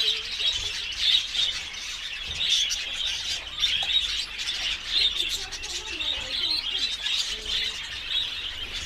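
Lovebirds chirping continuously, a dense run of high chirps without a break.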